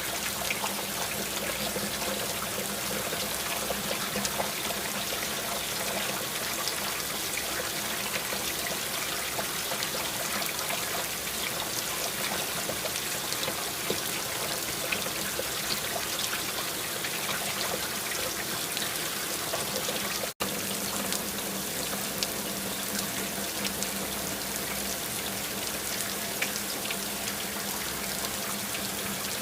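Steady rain with trickling, running water and many small drop ticks. The sound cuts out for an instant about twenty seconds in.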